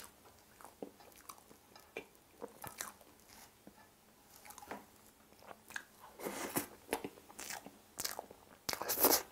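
Close-miked chewing and wet mouth sounds of a person eating Oreo cream icebox cake: irregular clicks and smacks, growing busier and louder from about six seconds in.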